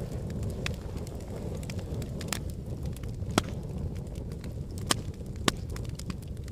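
Logs burning in a fireplace: a steady low rumble of flame with sharp crackles and pops of the wood at irregular intervals, about one strong pop every second or so.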